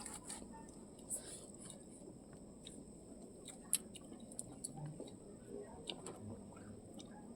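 Faint scattered clicks of chewing and eating over a quiet background with a thin, steady high-pitched tone.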